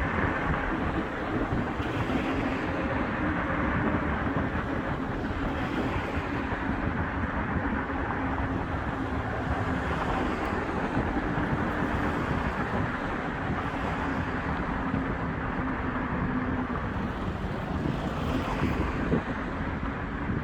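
Steady outdoor rumble of wind on the microphone, with a low engine hum underneath that comes and goes.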